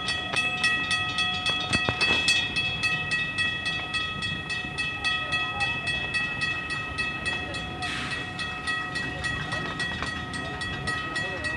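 Electric commuter train at the station, with a steady high whine of several tones and a rapid, even clicking of about five a second.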